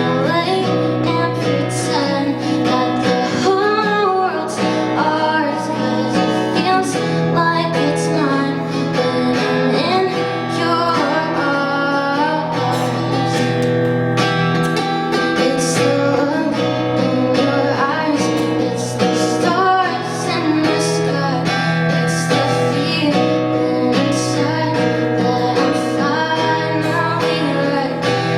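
A woman singing an indie-pop song live, accompanied by acoustic guitar.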